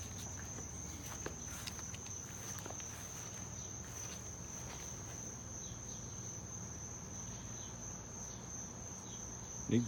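Crickets trilling in one steady, high, unbroken tone, with a few faint scattered clicks or footsteps.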